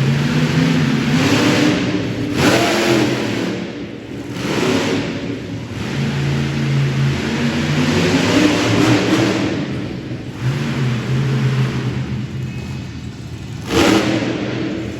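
Monster truck engine revving hard in repeated bursts, its pitch climbing and dropping again and again. A sudden loud burst comes near the end.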